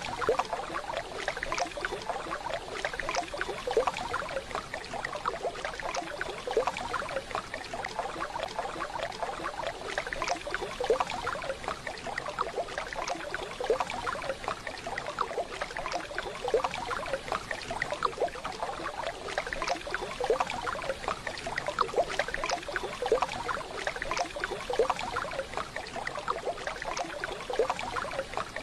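Waterfall water running and splashing steadily, a continuous rushing with dense small splashes.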